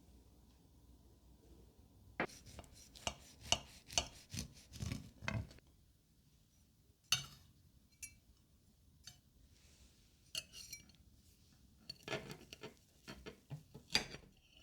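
Kitchen utensils clinking and knocking against dishes and a mixing bowl: a quick run of clinks, a lone one, then another scattered run.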